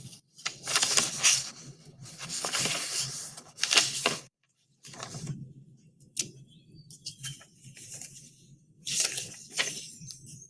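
Cartoon bird sound effects from an animated short played back through a speaker: a run of noisy flutter-and-scuffle bursts with faint bird calls, over a low steady hum. The sound drops out briefly a little after the middle, then the bursts resume.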